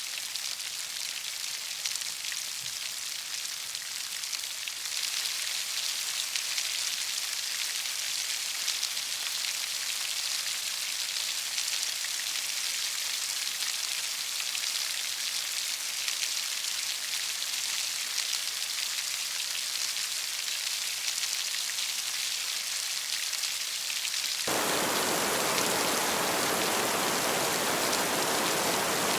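Heavy rain falling in a steady, dense hiss. About three-quarters of the way through, it switches abruptly to a louder, fuller and deeper rush of rain.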